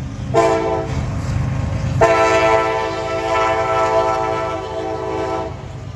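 Norfolk Southern freight locomotive's air horn sounding a chord, a short blast followed by a long blast of about three and a half seconds: the end of the grade-crossing horn signal. The diesel locomotive rumbles underneath.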